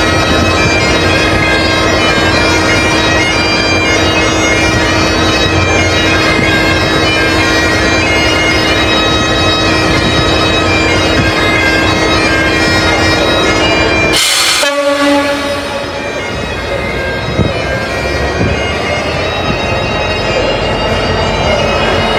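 Highland bagpipes playing, a steady drone under the chanter melody, over a low rumble. The piping breaks off suddenly about two-thirds of the way through and then resumes.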